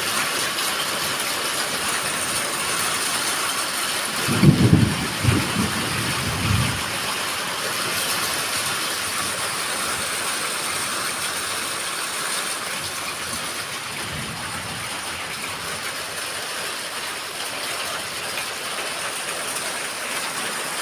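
Heavy rain pouring steadily in a downpour without strong wind. A low rumble, likely thunder, swells about four seconds in and fades after a couple of seconds, and a fainter one comes near the middle.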